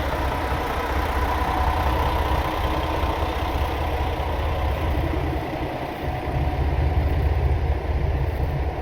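Diesel train engine running steadily with a low hum, growing somewhat louder about six seconds in.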